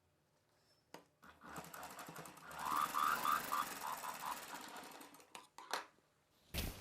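Sewing machine stitching a seam in one run of rapid needle strokes lasting about three and a half seconds, starting about a second and a half in, with a few separate clicks before and after.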